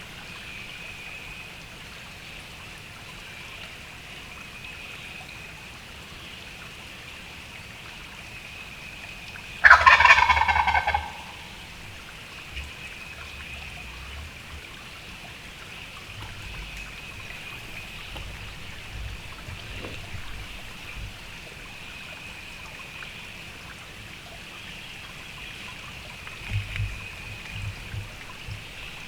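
A wild turkey gobbler gobbles once, loudly, about ten seconds in: a rapid rattling call that drops in pitch, answering the hunter's yelps as it comes in. A faint steady high hum runs underneath.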